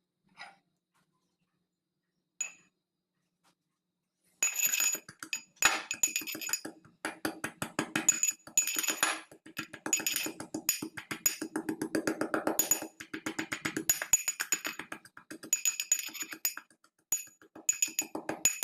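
A metal utensil rapidly striking and scraping metal cookware, in bursts of quick clicks with short pauses, the pan or bowl ringing at the same few pitches. A couple of faint single clicks come first, and the rapid clicking starts a few seconds in.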